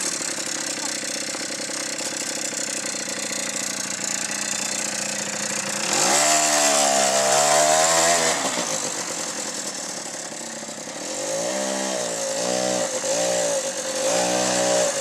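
Small 90cc ATV engine running steadily, then revved up and back down once about six seconds in. Near the end the throttle is blipped several times in quick succession.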